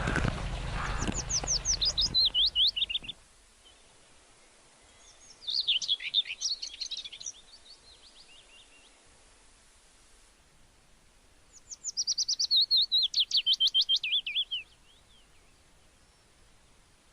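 A songbird singing three phrases of quick, repeated notes separated by pauses. The first and last phrases are runs that fall steadily in pitch; the middle one is a shorter, jumbled phrase.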